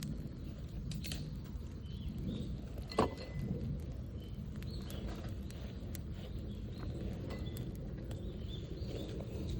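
Small campfire of kindling crackling, with scattered light snaps and one sharper snap about three seconds in, over a steady low outdoor rumble.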